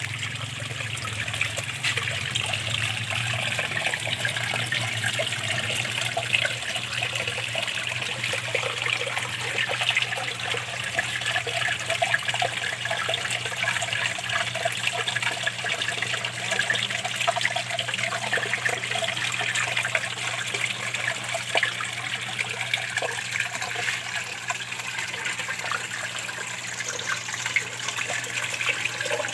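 Small garden-pond waterfall splashing and trickling steadily into a fish pond, with a steady low hum underneath.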